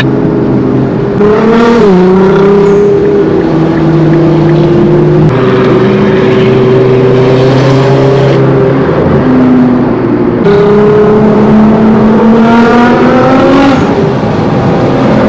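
Loud Nissan GT-R engines running, their pitch dipping about two seconds in, shifting several times, then rising near the end as they rev.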